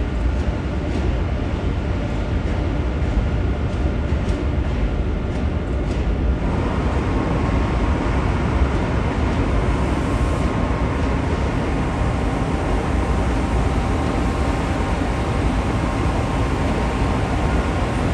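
Train running steadily close by: a constant low rumble, with a faint steady whine coming in about six seconds in.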